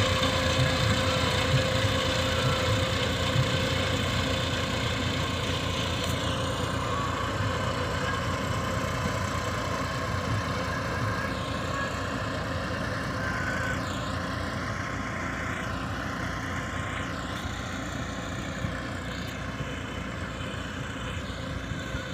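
A motor engine running steadily at an even speed, slowly growing fainter.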